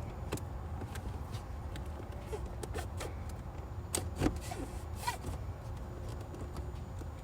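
Scattered light clicks and rustles of hands pressing EL wire into the plastic dashboard trim, over a steady low hum.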